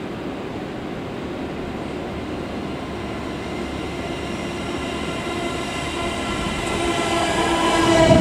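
JR E231 series electric train pulling into the station platform. Its running noise grows steadily louder as it approaches, with a whine of steady tones building in the last few seconds and a low thump near the end as the cars pass close by.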